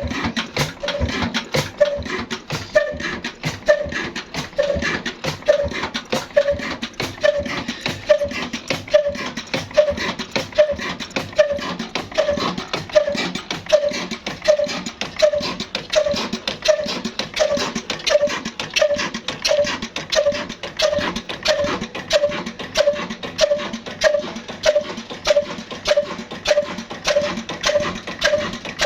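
Old 26 hp black stationary diesel engine running steadily, a regular heavy beat about one and a half times a second over fast, even knocking.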